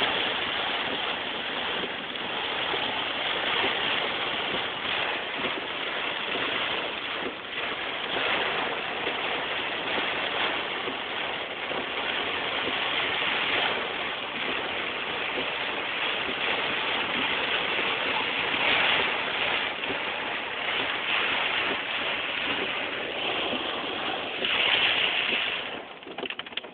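Heavy rain and wind of a storm: a dense, steady rush of noise that swells and eases in gusts, dropping off sharply near the end.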